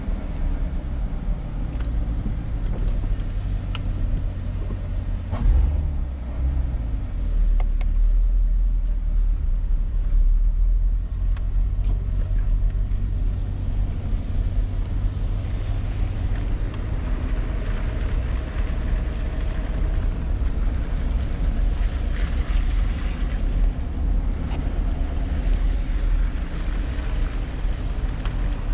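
A car driving: a steady low engine and road rumble heard from inside the cabin, with a few light clicks early on.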